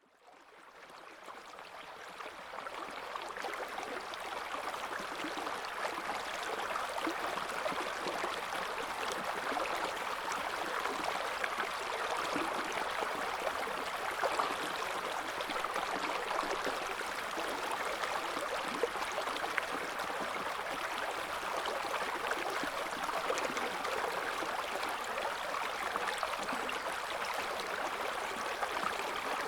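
River flowing: a steady rush of running water that fades in over the first few seconds and then holds even.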